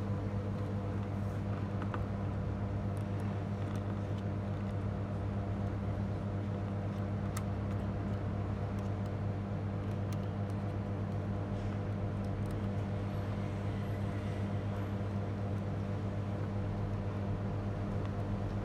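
Steady electrical hum with a constant low drone, a faint hiss over it and a few light scattered clicks.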